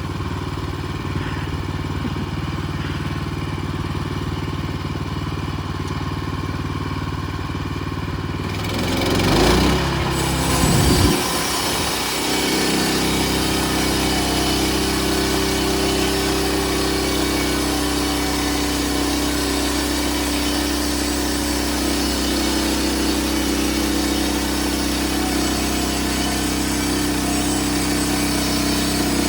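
Small petrol engine of a portable bandsaw sawmill running steadily. About nine seconds in it changes speed with a brief louder surge, then settles into steady running with more hiss on top.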